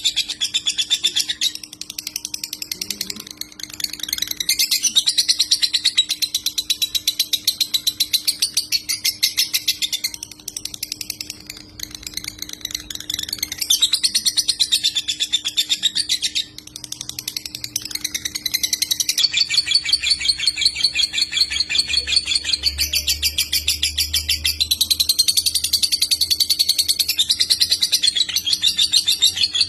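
Lovebird singing in the 'konslet' style: long phrases of very rapid, buzzy chattering trills, broken by short pauses about 3, 11 and 16 seconds in. A faint steady hum runs underneath.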